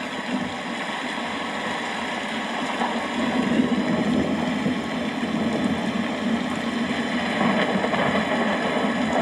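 Steady rain falling, with a continuous low rumble beneath it that grows a little louder a few seconds in.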